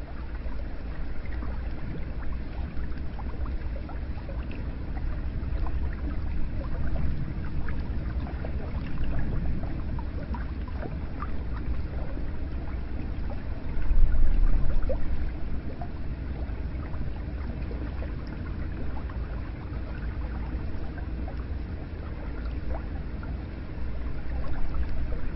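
Hot spring water running into an onsen bath: steady low splashing and gurgling with scattered small drips, swelling briefly about 14 seconds in.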